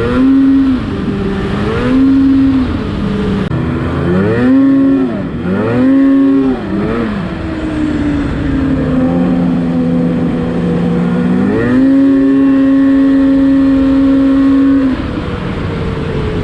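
Snowmobile engine under way, revving up and falling back in four or five quick throttle bursts, then running steadier. About a second before the three-quarter mark it climbs to a higher pitch and holds there for a few seconds, easing off near the end.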